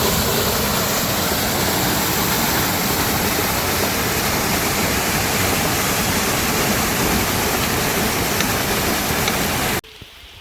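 Loud, steady rush of water, cutting off suddenly near the end.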